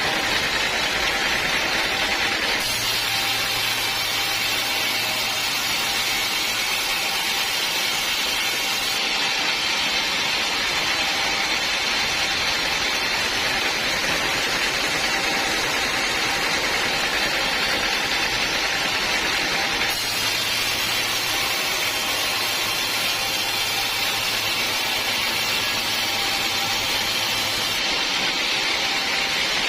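Sawmill saw running steadily through teak wood with a dense, even noise. A low hum comes in twice, for several seconds each time.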